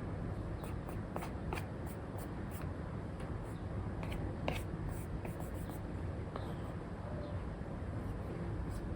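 Apple Pencil tip with an Elecom nib tapping and stroking on a paper-textured film over an iPad screen while sketching. Irregular light ticks and short scratchy strokes sound over a steady low hiss.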